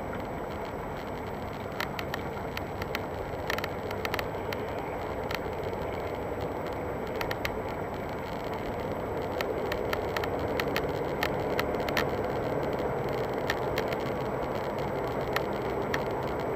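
Car dashboard panel creaking and clicking in irregular sharp ticks over the steady noise of the moving car, heard from inside the cabin.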